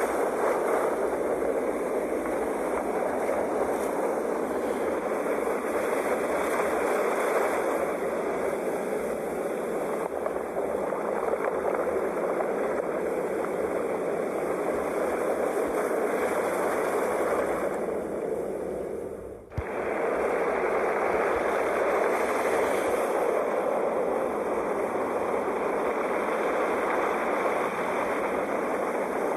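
Ocean waves: a steady, continuous wash of surf, with a brief dip and drop-out about two-thirds of the way through before it resumes.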